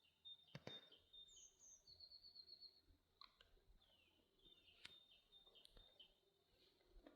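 Faint bird chirps: short high notes, a quick trill of repeated notes about two seconds in, and downward-slurring calls, with a few sharp clicks scattered through.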